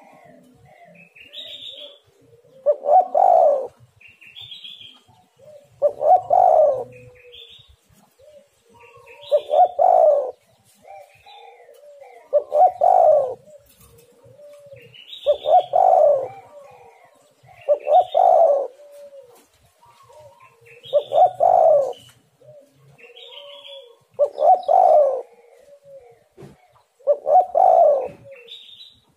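Spotted dove (tekukur) cooing: repeated coo phrases, one about every three seconds, with short higher chirps between them.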